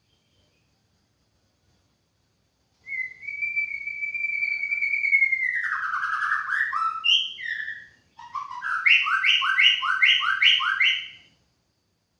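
White-rumped shama (murai batu) singing. It opens with one long clear whistle that slides down at its end, follows with a few quick varied notes, and after a short break finishes with a fast run of about six repeated notes.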